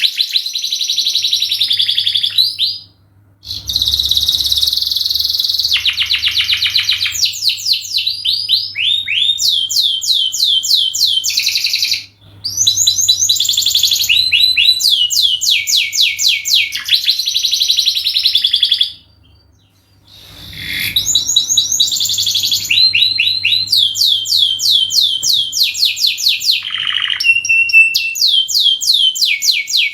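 Domestic canary singing a long song of fast trills and rapidly repeated notes, with short pauses about three seconds in, around twelve seconds, and for about a second near twenty seconds.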